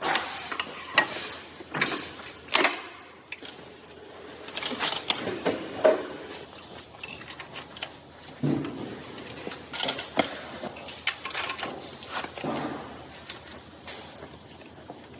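Metal engine parts and hand tools clinking and knocking as a Mercedes engine is assembled by hand, with a few sharp knocks in the first few seconds and lighter scattered clatter after.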